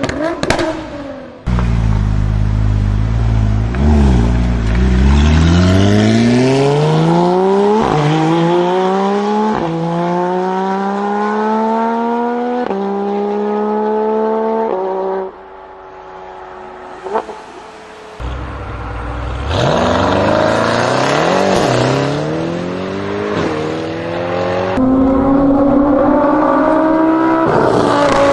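High-performance car engine under hard acceleration: pitch climbs through several gears, dropping sharply at each quick upshift. It opens with sharp exhaust cracks, goes quiet off-throttle about halfway, then pulls hard through the gears again.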